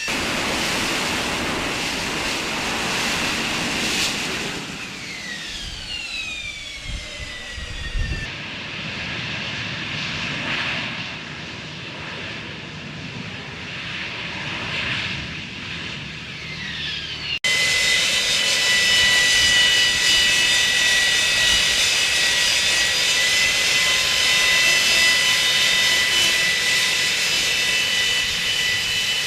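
AV-8B Harrier II's Rolls-Royce Pegasus turbofan running loud, a rushing jet noise with a high turbine whine. In the first part the whine falls in pitch several times; after a sudden cut about two-thirds of the way in, it holds a steady high pitch.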